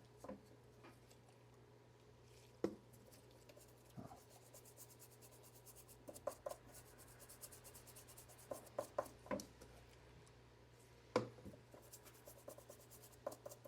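Faint, scattered small taps, clicks and light scraping of a tool working on a freshly soldered connector while the solder flux is cleaned off it, over a steady low hum.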